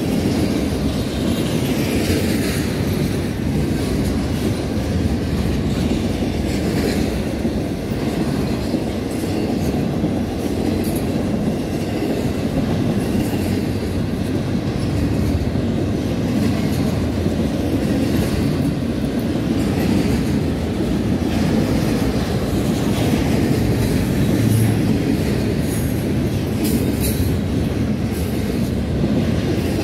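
CSX Q022 double-stack intermodal freight train rolling steadily past, a continuous rumble of the cars with wheels clacking over the rail.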